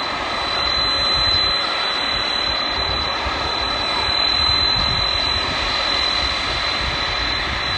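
Airplane engine running loud and steady, a continuous rushing noise with a thin high whine held at one pitch throughout.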